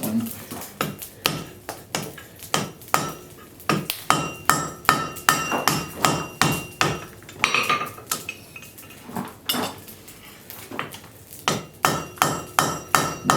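Rounding hammer striking a railroad spike on the anvil in a steady run of blows, about two to three a second, with a metallic ring after many strikes and a few short pauses. The flat face of the hammer is rounding the edges of the spike's end into a knob.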